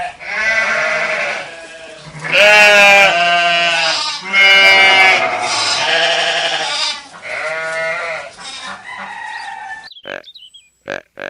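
Sheep bleating over and over, about six wavering bleats in a row, each lasting about a second. Near the end they give way to a few short, clipped pulses.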